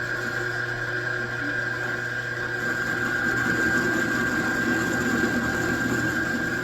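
Metalworking machine tool running steadily: a motor hum with a constant high whine over it, a little louder and rougher for a few seconds in the middle, as if cutting.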